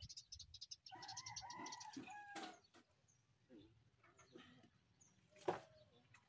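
Faint bird sounds: a fast, high chirping trill, then a pitched bird call lasting about a second and a half from about a second in. Two sharp knocks, the louder one near the end.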